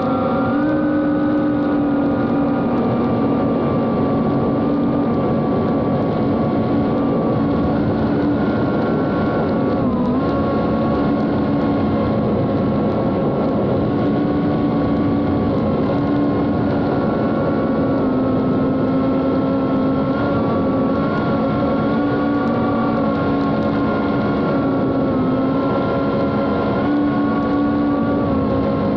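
Small FPV cinewhoop drone's four brushless motors and 3-inch propellers buzzing steadily in flight, heard from the onboard camera. The pitch shifts a little with throttle and dips briefly about ten seconds in.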